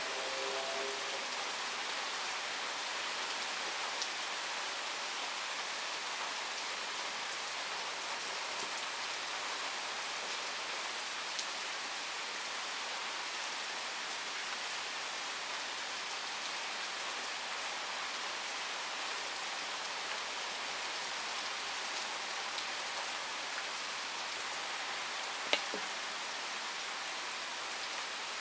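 Steady rain from a thunderstorm, with scattered drop ticks and one sharper tap near the end.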